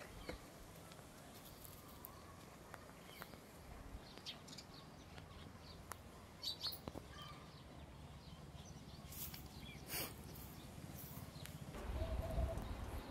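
Faint outdoor ambience with scattered short bird chirps, and a low rumble near the end.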